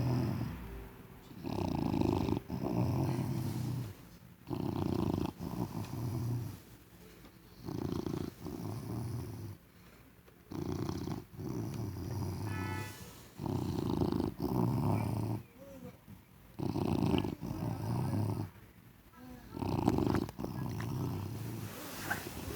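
A seven-month-old English bulldog snoring loudly and rhythmically in its sleep, about eight deep, rough snores roughly three seconds apart, many of them split into two parts. It sounds like a heavy human snorer.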